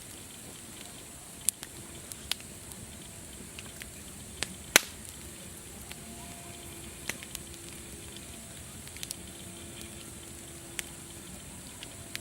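Wood fire crackling: a steady hiss broken by sharp, irregular pops every second or two, the loudest about five seconds in.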